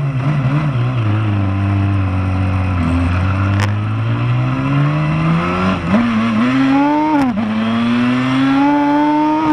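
Motorcycle engine accelerating hard through the gears: its pitch climbs steadily, drops sharply at gear changes about six and seven and a half seconds in, then climbs again.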